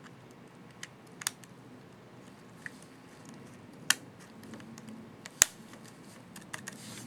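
Sharp plastic clicks from a keycap on an HP ProBook 4540s laptop keyboard as it is fitted and pressed, a handful of scattered clicks with the loudest about four and five and a half seconds in.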